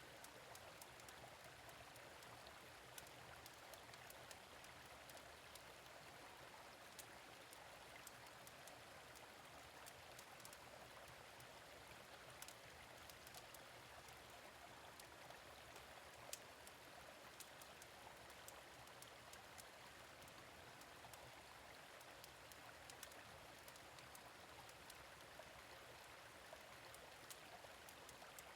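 Quiet, steady flow of a gentle stream, with scattered small pops and crackles from a fire pit.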